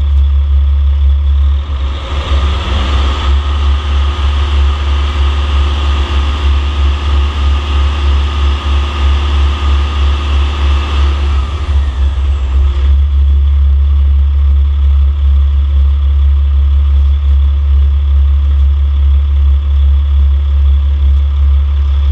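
Caterpillar C13 inline-six turbodiesel engine on a test run. It idles, is revved up about two seconds in and held at raised speed for about ten seconds, then drops back to a steady idle.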